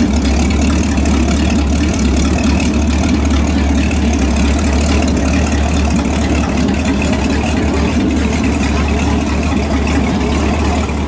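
Inboard boat engine idling with a steady low rumble that does not change.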